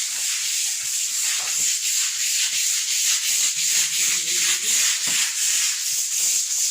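Steady rushing hiss of fast, swollen floodwater in a river in spate.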